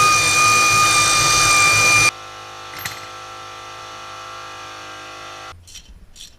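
Power tool running with a steady whine, cutting off abruptly about two seconds in. A quieter steady hum follows, then a few short scraping strokes near the end.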